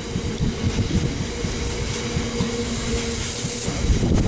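A freight train of Drax biomass hopper wagons rolling past: the wheels rumble and clatter over the rail joints with a steady ringing tone under it. A thin high wheel squeal rises over it for about a second, near the three-second mark.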